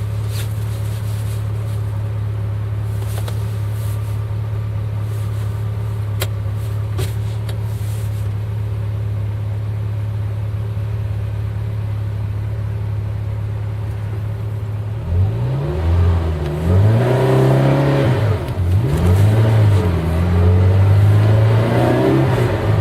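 Eight-cylinder engine idling steadily, then, about two-thirds of the way through, revved several times, its pitch rising and falling with each blip of the throttle.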